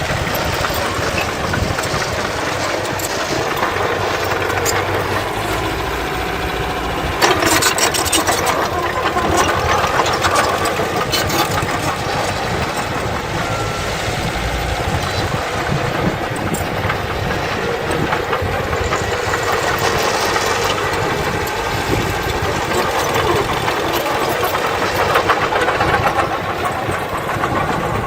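Diesel engines of heavy earthmoving machinery running steadily, with a sudden louder, rattling stretch about seven seconds in.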